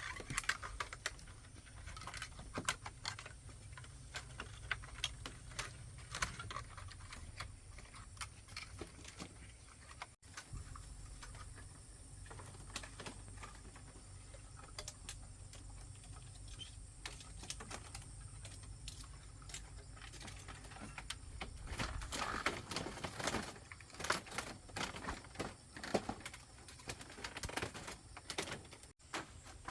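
Irregular light clicks and taps over a low steady rumble.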